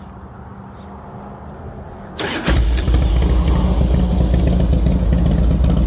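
1999 Harley-Davidson Dyna Super Glide's Twin Cam 88 V-twin with a Thunder Header 2-into-1 exhaust, fresh from a carburettor rejet, starting up about two seconds in and then running loud and steady. A low hum comes before it.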